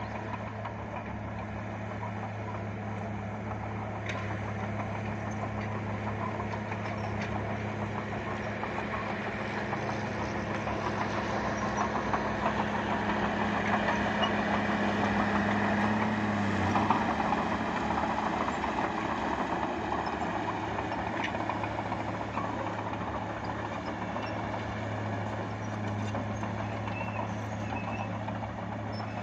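Bulldozer's diesel engine running steadily, growing louder and rougher toward the middle; its note dips briefly about two-thirds of the way through, then settles back.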